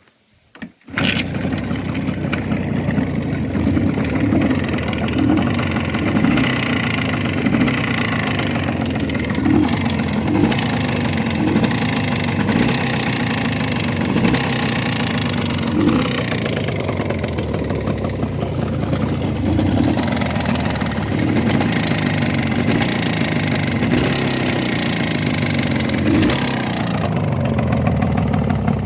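Jawa 638 motorcycle's two-stroke twin engine catching about a second in after a start, then running steadily with small repeated rises in speed. It has a knock that new pistons and rebored cylinders have not cured, which the owner suspects comes from the crankshaft's central main bearing.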